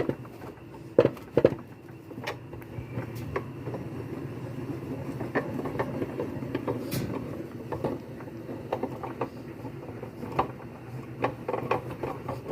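A wrench turning the bolt of a puller tool to draw a washing machine's agitator mechanism off its shaft: scattered metal clicks and knocks over a steady scraping noise.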